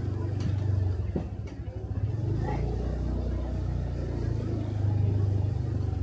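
Motorcycle engine running steadily under way, with a low hum and road noise; it eases off briefly about a second and a half in, then picks up again.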